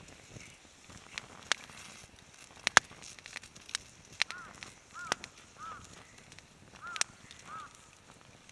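Campfire crackling with irregular sharp pops. From about four seconds in, a bird gives five short calls, each rising and falling in pitch.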